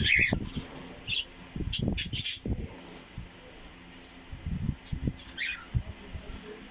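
Pet birds giving short, high chirps several times, amid soft low flutters and thuds of wings as they bathe.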